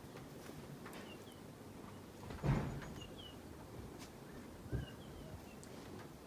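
Small bird chirping in short, high notes every second or so, with two brief louder thumps about two and a half and five seconds in.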